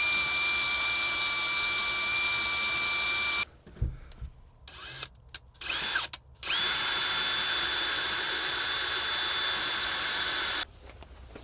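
Power drill running steadily while drilling out a snapped-off bolt. It stops about three and a half seconds in, gives a few short bursts, then runs again at a higher pitch for about four seconds before stopping.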